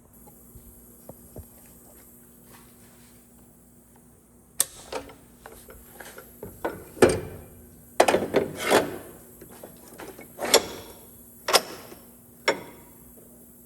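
About ten sharp knocks and clanks, the first about four and a half seconds in and most of them in the second half, as steel pieces and tools are handled at the workbench. A faint steady hum runs underneath.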